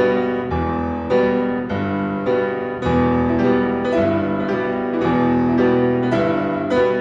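Classical piano music for four hands on one piano: dense, loud chords struck at a steady pace of about one every half second or so, with notes ringing between them.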